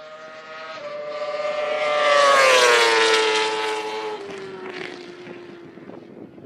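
Moto2 racing motorcycle with an SC-Project exhaust passing at speed: one engine note swells to its loudest about two and a half seconds in, drops in pitch as it goes by, and fades away.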